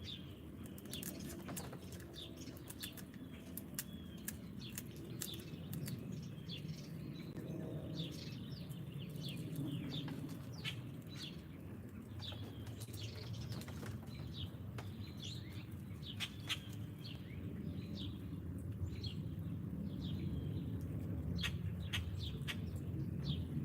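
Wild songbirds chirping: many short, quick chirps and a few sharp ticks throughout, over a steady low outdoor rumble.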